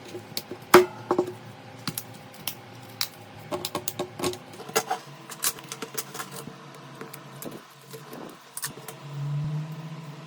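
Small hard clicks and taps, like tools and phone parts being handled during a smartphone repair, thickest in the first half. A low steady buzz starts near the end.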